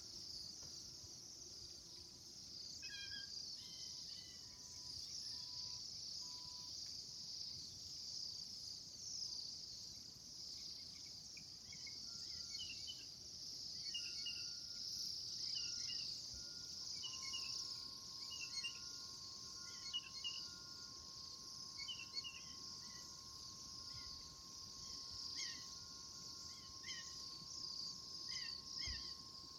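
Birds chirping in short, scattered calls over a continuous high-pitched chorus, with a faint steady tone joining about halfway through.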